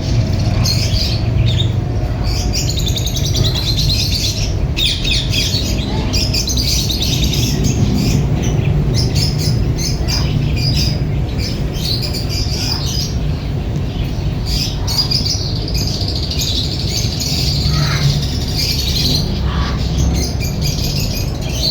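Ring-necked parakeets chirping and squawking, with many short, high chirps and trills throughout, over a steady low rumble.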